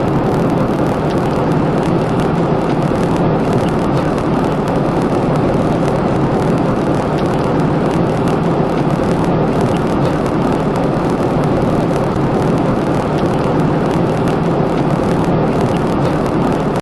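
A loud, steady rumbling roar with no distinct tone or rhythm, cutting off abruptly at the end.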